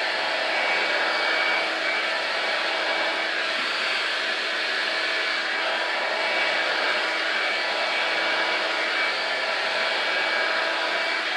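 Revlon One-Step hot-air brush dryer running steadily on its low setting: a constant rush of blown air over a steady motor hum.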